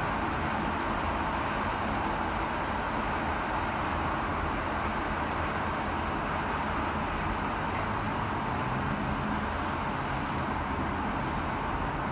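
Steady city traffic noise, an even hum without breaks, with a low engine note coming in over the last few seconds.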